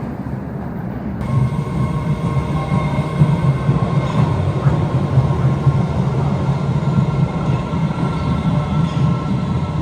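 MBTA subway train running: a steady low rumble of wheels and motors with faint thin whining tones above it. The sound becomes fuller about a second in.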